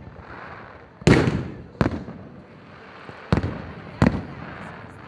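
Aerial firework shells bursting in the sky: four sharp bangs in two close pairs, the loudest about a second in, with a crackling hiss hanging between them.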